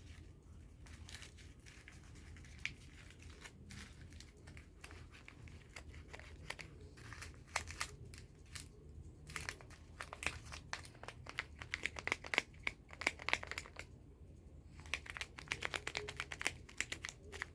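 Faint paper crinkling and handling, coming in several bursts of rapid crackles.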